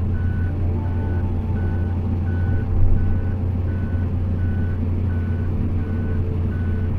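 Amphibious excavator's diesel engine running steadily under load while its travel alarm beeps evenly, about one and a half beeps a second, as the machine tracks along.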